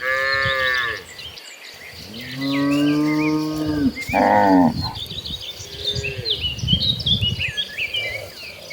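A herd of cattle mooing in turn. A short, higher call comes right at the start, then a long low moo about two and a half seconds in, a shorter one at about four seconds and a fainter one near six seconds. Small high chirps run throughout behind the calls.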